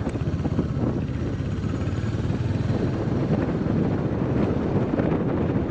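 Royal Enfield Hunter 350's single-cylinder engine running steadily at road speed, a fast low thrum, with wind rushing over the microphone.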